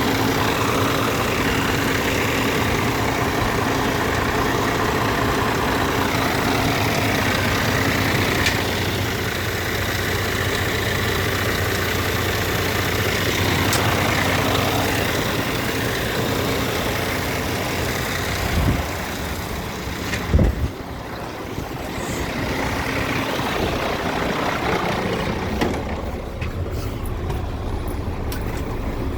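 Scania P410 dump truck's 13-litre six-cylinder diesel engine running steadily, with two short low thumps about two-thirds of the way through.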